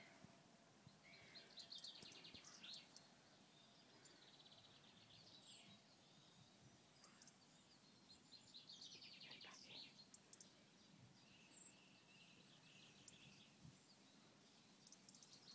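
Near silence outdoors, with faint birdsong: rapid trilling phrases heard a few times, about a second in, around the middle and near the end.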